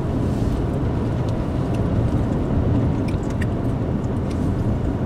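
Steady rumble of a car's engine and tyres heard from inside the cabin while driving on a snow-covered road, with a few faint ticks.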